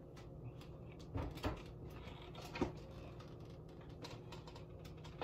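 A person chewing a bite of pizza: faint mouth noises and a few soft clicks and knocks over a low, steady room hum, the sharpest click about two and a half seconds in.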